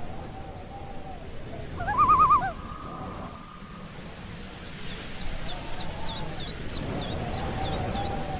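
Several birds calling over a steady rushing background: low hooting calls near the start and end, a loud warbling call about two seconds in, then a run of about nine quick, high, falling notes from a small songbird.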